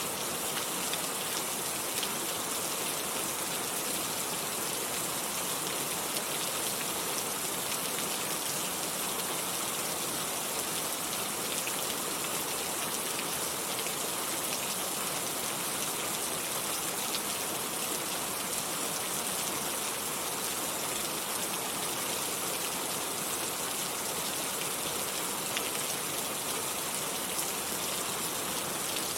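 Steady rain falling, an even hiss of many drops with fine scattered ticks and no thunder.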